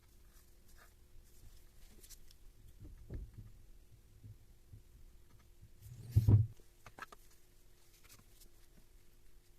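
Small clicks and knocks of tool parts being handled on a workbench, with one louder thump about six seconds in, over a faint steady hum.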